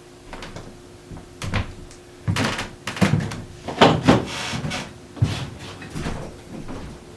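Wooden chair parts being handled during disassembly: a string of knocks and clunks with scraping and rustling strokes, busiest in the middle.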